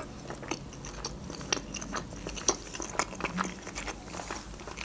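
Close-miked chewing of a mouthful of boiled pelmeni dumplings: soft, wet mouth clicks and smacks coming irregularly.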